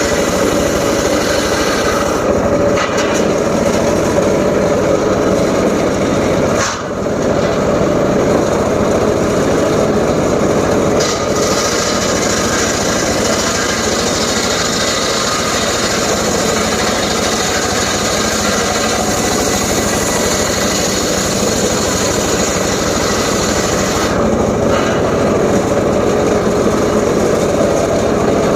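Engine-driven homemade circular saw running steadily as it cuts teak wood, with a brief dip about seven seconds in.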